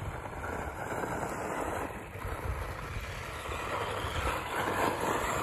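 Losi XXXT electric two-wheel-drive RC stadium truck running over loose dirt, a fairly steady rough noise of tires on dirt.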